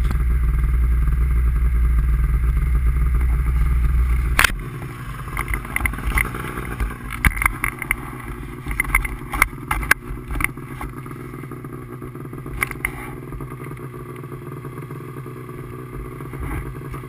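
A vehicle engine running with a steady low hum. About four seconds in, a sharp click, after which the level drops and scattered clicks and knocks follow over a quieter steady background.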